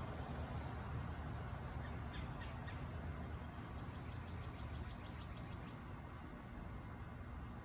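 Steady low rumble of background noise, with a bird calling a few short high notes about two seconds in and a quick run of faint repeated notes around the middle.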